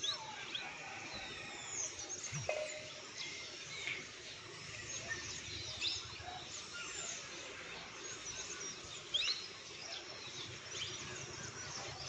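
Several small birds chirping and calling on and off, short quick notes scattered throughout, over a steady low outdoor background noise.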